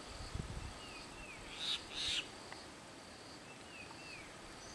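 Wild birds calling: pairs of short falling chirps, and two brief, louder high calls about two seconds in, over a faint steady high drone.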